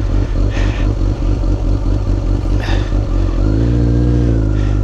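Kawasaki Ninja ZX14R's inline-four engine running, its revs rising about three and a half seconds in and then holding at a higher, steady pitch.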